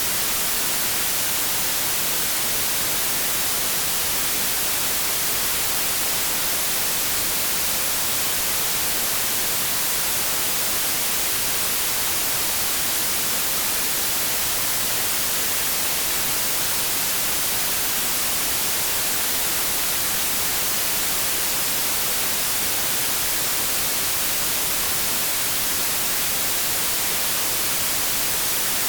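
Continuous synthetic white noise: a steady, even hiss, brightest in the treble, that never changes.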